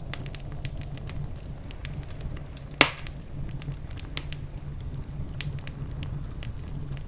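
Wood fire crackling in a fireplace: a low steady rumble of flames with scattered sharp pops and snaps, one much louder pop a little under three seconds in.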